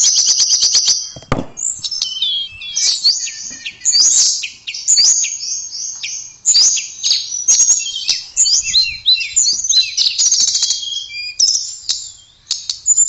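A tledekan songbird singing a rapid, varied song of high chirps, trills and short glides, with a brief pause near the end.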